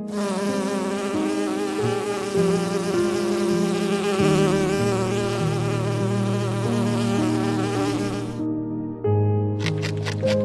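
A close, wavering insect-like buzz over background music, cutting off suddenly about eight seconds in.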